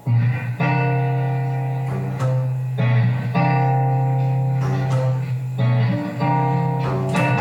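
Instrumental intro of plucked strings: guitar chords ringing over low sustained bass notes, with a new chord struck every second or so.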